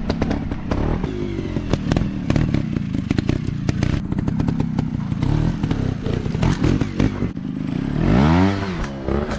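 Small dirt bike engine running at low revs over rough ground, with frequent clattering knocks, then revving up and dropping back once about eight seconds in.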